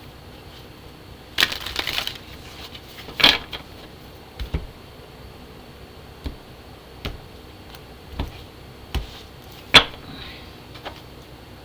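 Tarot deck shuffled and handled by hand: irregular short snaps and rustles of cards, with a sharp click near the end as the loudest.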